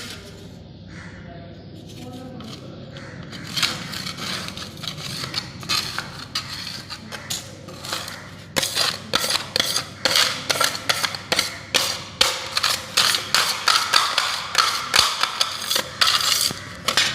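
Repeated scraping of a tool across a hard floor while clearing flood mud, about two strokes a second. The strokes are sparse at first and become stronger and steady from about halfway in.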